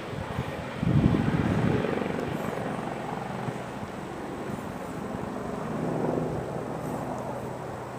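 Helicopter engine and rotor drone, steady with a low hum, swelling louder about a second in and then easing off.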